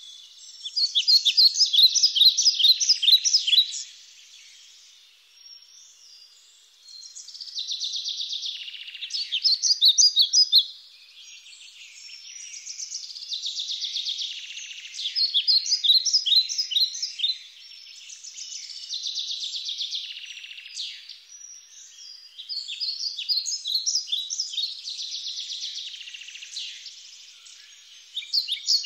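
Songbirds chirping and singing in bouts of rapid, high notes a few seconds long, with short gaps between bouts.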